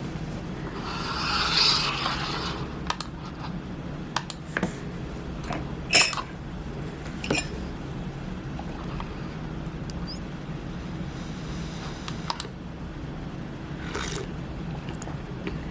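Light clicks and clinks of small hard objects being handled, scattered through, the sharpest about six seconds in, over a steady low hum. A brief rush of noise comes about a second in.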